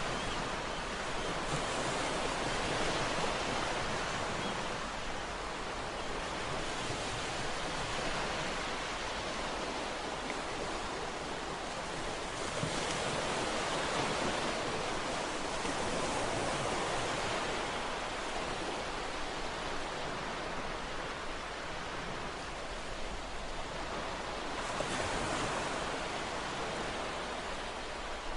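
Ocean waves breaking and washing on a shore, a continuous surf noise that swells and recedes every few seconds.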